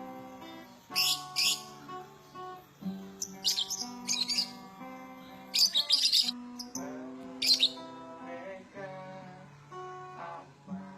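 Background music on plucked acoustic guitar, with short bursts of high bird chirping breaking in several times over it.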